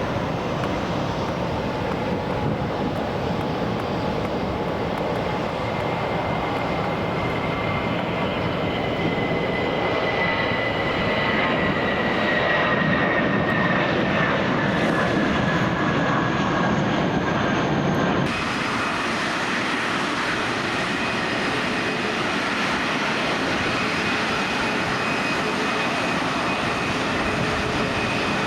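Jet airliner engines running loud and steady on the runway, with a high whine that slides down in pitch as the aircraft passes. About eighteen seconds in the sound cuts abruptly to another steady jet engine noise.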